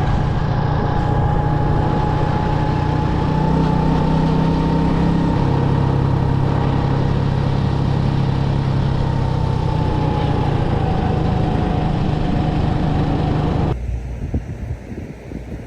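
Motorcycle engine running steadily while riding, its pitch rising slightly and easing back. Near the end it cuts off abruptly to a quieter, uneven noise.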